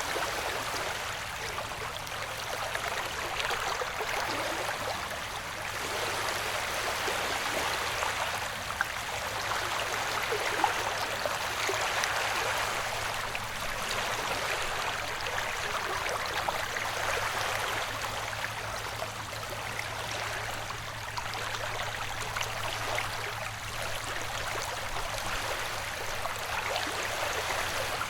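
Ocean-wave white noise: a steady rushing hiss of water that swells and eases gently, with a faint steady low hum beneath it.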